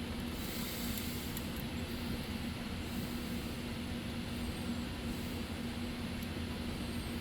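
Steady background hum and hiss, with one low tone held throughout and no distinct tool sounds.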